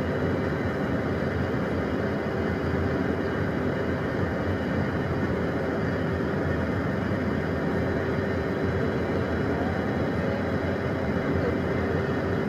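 Steady cockpit drone of a Beechcraft Premier 1A light jet idling on the ramp: a constant noise with a low hum and a thin high whine running through it.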